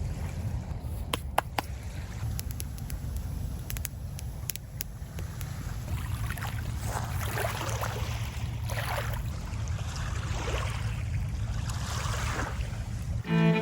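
Small campfire being built, with sharp crackles and snaps of kindling in the first few seconds, then a series of rushing swishes, over a steady low rumble of wind on the microphone. Music comes in right at the end.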